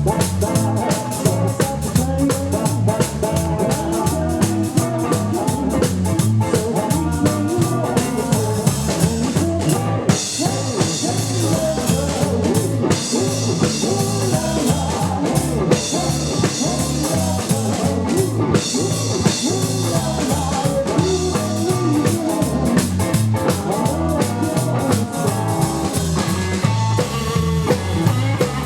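Live rockabilly band playing, with double bass, electric lead guitar and a drum kit keeping a steady beat.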